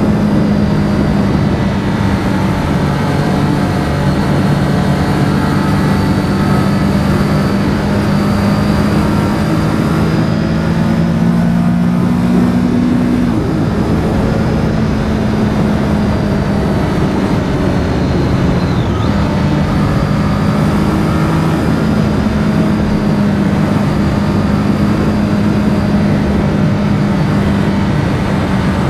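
Triumph Street Triple R's three-cylinder engine running on the move, with wind and road noise over it. Its note creeps up a little, drops sharply about halfway through, then holds steady.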